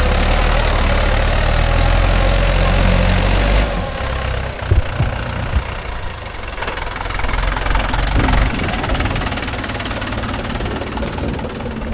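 Mahindra 415 DI tractor's diesel engine running, throttled back about four seconds in to a lighter idle, with a couple of sharp clunks shortly after.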